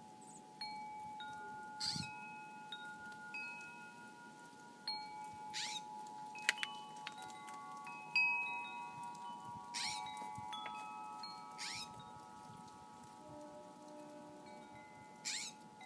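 Wind chimes ringing, single notes struck every second or so and left to ring over one another, with a few short hissing swishes in between.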